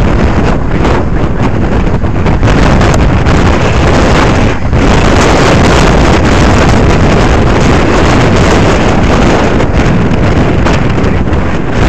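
Heavy wind buffeting the microphone, very loud and close to clipping, over the sound of an autograss racing car, with a brief lull about four and a half seconds in.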